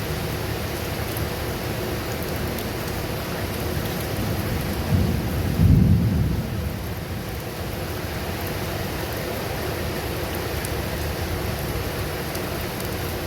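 Steady rain with a low rumble of thunder that swells about five seconds in, peaks a second later and dies away over a couple of seconds.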